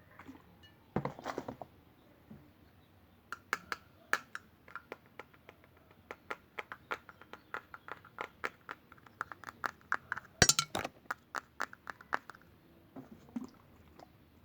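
ASMR tapping: fast light taps on a hard object that rings faintly between strokes, about three or four a second, with the loudest cluster near the end, after a short rustle about a second in.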